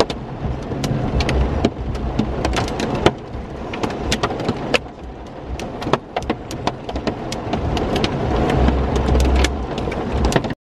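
Rain striking a vehicle in a thunderstorm: many irregular sharp taps over a steady wash of rain, with a low rumble that grows stronger near the end.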